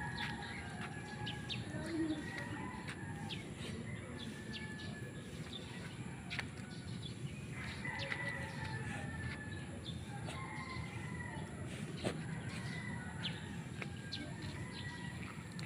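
Birds chirping and calling over a steady low outdoor rumble, with scattered light ticks and rustles.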